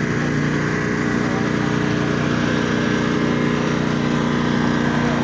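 A small engine running at a steady speed, an even hum that holds without change.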